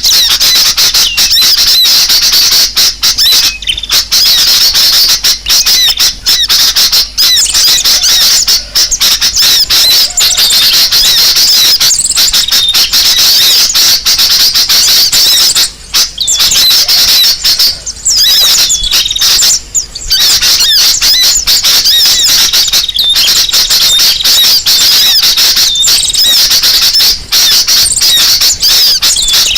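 Bird-lure recording: a dense, loud, unbroken chorus of many small birds chattering, with rapid high-pitched chirps and squawks crowding over one another and only a few brief lulls around the middle.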